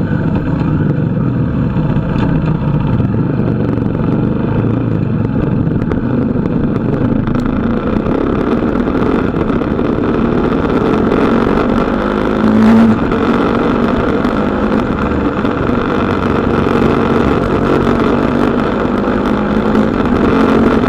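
KTM Duke 250's single-cylinder engine running steadily under way through corners, mixed with road and wind noise. A brief louder burst comes about thirteen seconds in.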